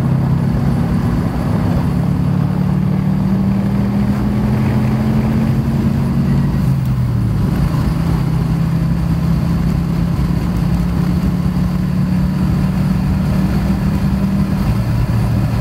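Subaru WRX's turbocharged flat-four engine running steadily while cruising, heard from inside the cabin with road noise. The engine note drops a little about halfway through, then holds steady.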